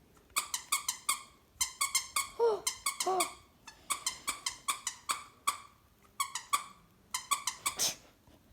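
A squeaky dog toy squeezed in quick bursts, several short squeaks at a time, with two short falling whine-like sounds in between about two and a half and three seconds in.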